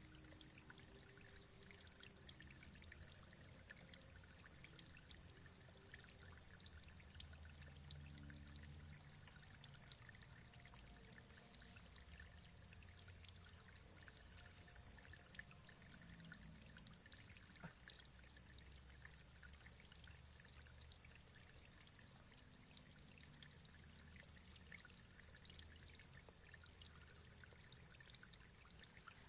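Faint, steady running water, a trickling stream with small drips and splashes scattered through it.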